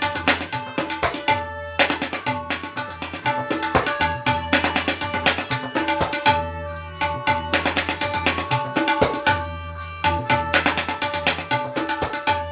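Tabla solo in teentaal: fast, dense strokes on the dayan and bayan, with the bayan's deep resonant boom swelling in and out. Underneath runs the steady, held melody of a lehra accompaniment.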